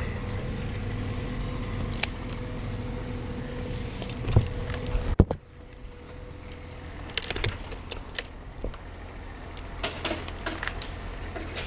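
Light metallic clicks and rattles of climbing hardware, with rope being handled, over a steady low hum. A sharp knock comes about five seconds in, and the hum drops away after it.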